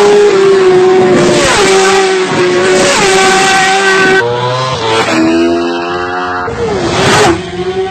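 Vehicle engine running loud at high revs, its pitch holding steady with brief dips and rises. About four seconds in, a different, lower engine note takes over for a couple of seconds before the first one returns.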